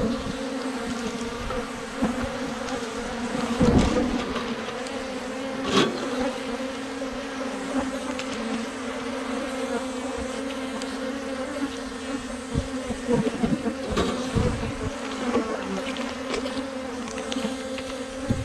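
Africanized honey bees buzzing as a steady, dense drone around an opened hive, with a few short knocks partway through.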